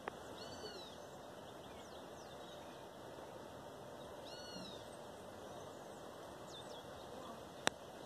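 Birds calling by the river: a short call that rises and falls in pitch, given twice about four seconds apart, with a few thin high chirps in between, over a steady background hiss. A single sharp click comes near the end.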